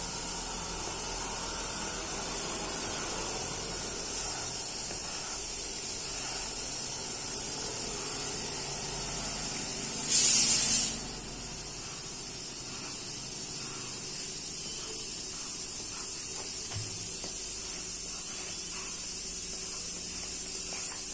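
Steady high-pitched hiss, with one brief, louder burst of hiss about ten seconds in.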